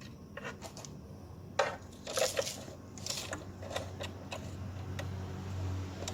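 Irregular clicks and clatter of small hard parts being handled and fitted, with a few sharper knocks in the first half. A low hum swells near the end.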